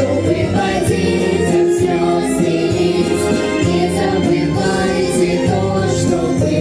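Music: a vocal group's song about the war, with choir-like singing over an instrumental backing.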